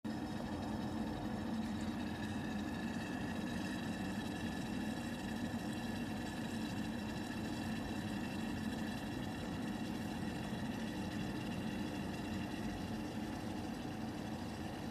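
OXYGEN EK-188 electric kettle heating water: a steady rumble and hiss with faint high whining tones over it.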